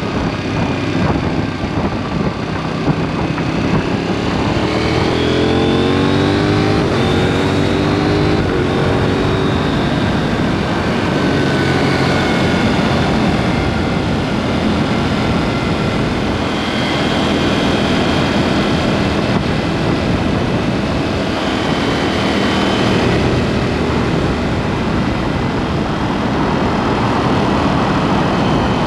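KTM 790 Duke's parallel-twin engine through an aftermarket SpeedPro Cobra SPX exhaust, under way on the road. The engine pitch rises a few seconds in as it accelerates, then settles to a steadier cruise over a constant rush of wind and road noise.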